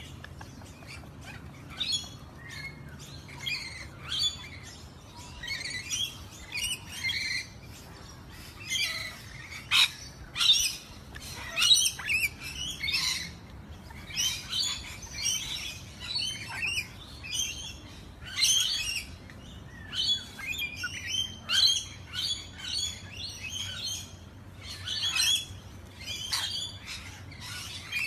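Birds chirping: many short high chirps and calls in quick runs, with brief pauses between runs.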